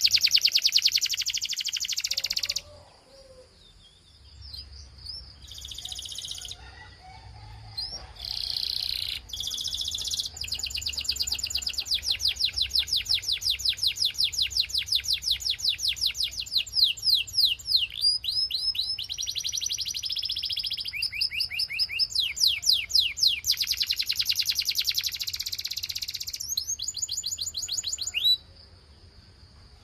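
Belgian canary singing a long song of fast, high trills of rapidly repeated sweeping notes, broken by a quieter gap about three seconds in and stopping shortly before the end.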